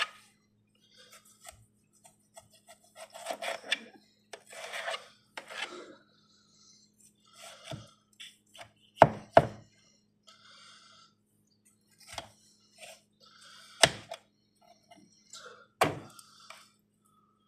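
A kitchen knife slicing tomatoes on a cutting board: scraping, sawing cuts, then sharp knocks of the blade hitting the board, two in quick succession and two more a few seconds apart.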